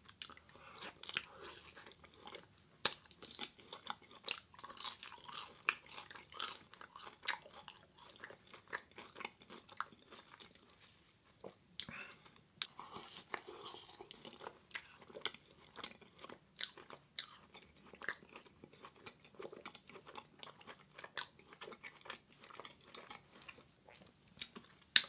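A person chewing pieces of vegan elephant ear (fried dough) close to the microphone, with a steady, irregular run of small mouth clicks and crunches.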